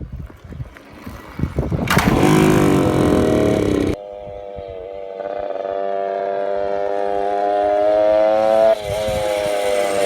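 Suzuki pit bike engine running and revving, its pitch rising and falling, with abrupt jumps about four seconds in and again near the end.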